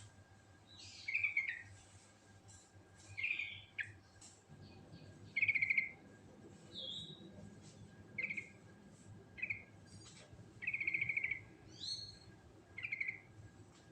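Yellow-vented bulbul (trucukan) singing: about ten short, rapid phrases a second or so apart, with a few rising notes.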